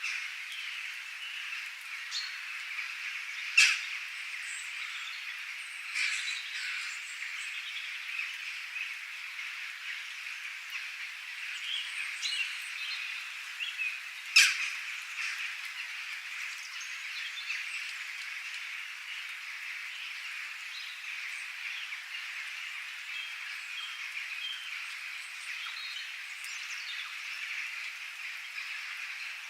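Outdoor nature ambience: scattered bird chirps and calls over a steady high-pitched chorus of frogs and insects. Two sharp, louder sounds stand out, about four and fourteen seconds in.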